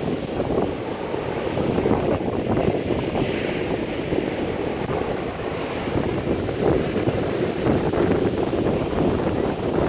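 Strong hurricane wind buffeting the microphone over surf breaking on the shore: a dense, gusting rush of noise.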